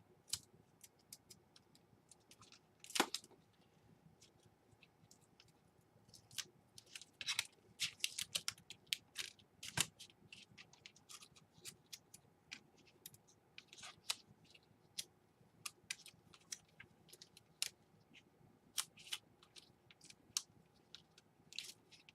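Faint, irregular small plastic clicks and taps of a laptop and its replacement keyboard being handled and fitted by hand. The clicks come thickest a little before halfway through.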